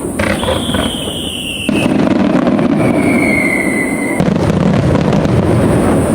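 Aerial fireworks barrage: a dense, continuous rumble and crackle of bursting shells that gets louder a couple of seconds in, with a few sharp cracks near the start. Two long falling whistles from whistling fireworks sound over it, one after the other.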